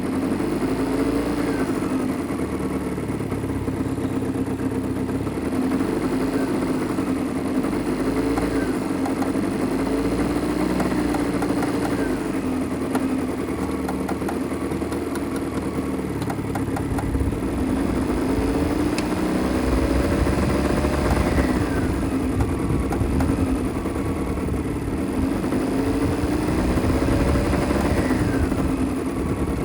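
Mitsubishi Minica 360's small two-stroke twin engine running steadily, its revs rising and falling several times.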